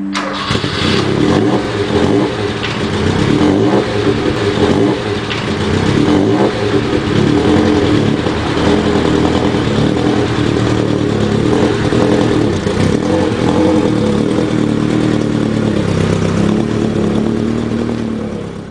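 Ford Pinto exhaust note, the engine running at fairly steady revs with its pitch wavering, rising a little near the end.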